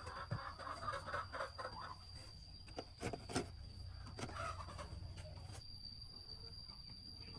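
Chickens clucking softly, mostly in the first two seconds, with a few sharp clicks about three seconds in and a steady high-pitched whine throughout.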